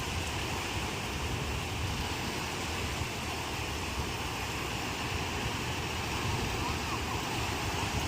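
Ocean surf washing steadily, with a low rumble of wind on the microphone.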